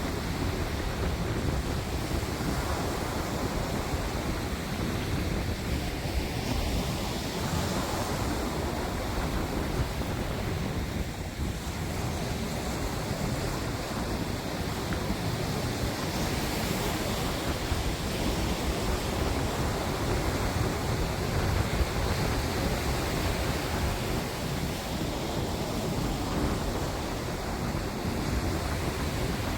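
Steady wind buffeting the microphone over a continuous wash of sea waves, with no distinct events.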